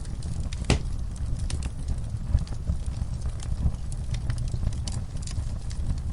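Wood fire in a fireplace crackling: irregular snaps and pops over a steady low rumble of the burning fire, with one sharper pop under a second in.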